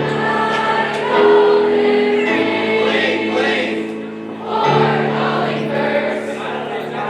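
High school choir singing in harmony, holding long chords that change a few times.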